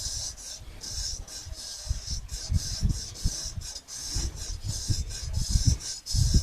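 Traditional straight razor scraping over skin and stubble in repeated short shaving strokes, with low dull thumps of handling between them.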